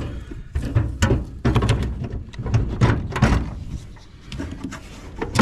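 Irregular clunks, knocks and scrapes of a car battery being handled and its clamps worked loose, with a sharp knock right at the start and a loud clunk at the very end.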